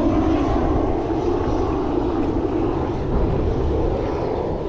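Steady wind rush and low rumble on the microphone of a mountain bike rider moving along a trail.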